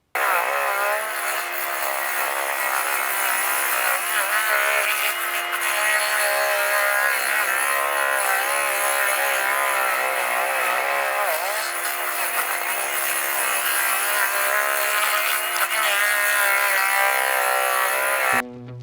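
Machine running a Blue Diamond hydraulic stump grinder attachment into a stump, a steady engine-and-grinder drone whose pitch wavers up and down as the wheel takes load. It starts and cuts off abruptly.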